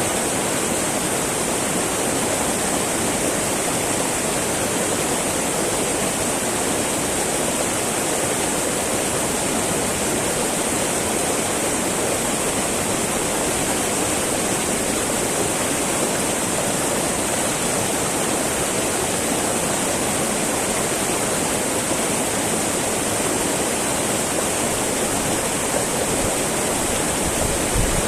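Small mountain river babbling over rocks: a steady, even rush of flowing water.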